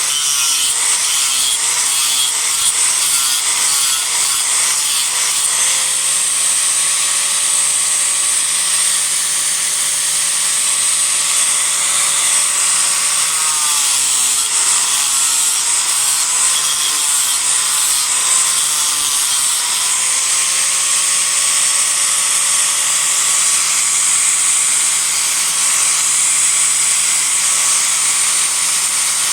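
Disc grinder running continuously while grinding a cedar offcut to rough shape. Its whine sags and recovers in pitch several times as it is pressed into the wood, near the start and again in the middle, and runs steady in between.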